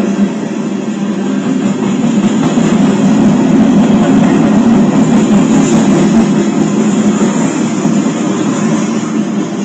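A Union Pacific grain train rolling past: a loud, steady rumble of its wheels on the rails.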